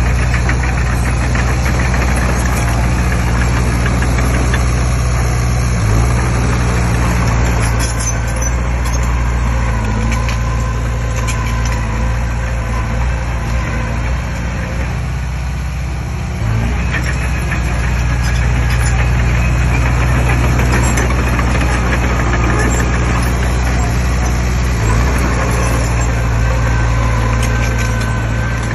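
Komatsu D20P bulldozer's diesel engine running steadily under work. It eases off briefly about halfway through, then comes back up.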